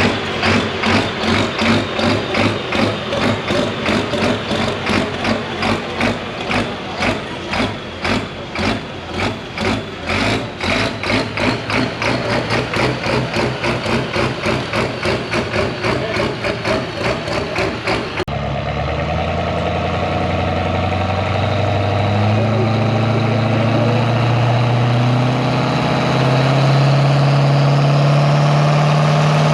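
Compound-turbocharged alcohol pulling tractor engine. For most of the clip it runs with an even, rhythmic pulsing lope of about three beats a second. Then its pitch climbs steadily under load while a turbo whine rises above it.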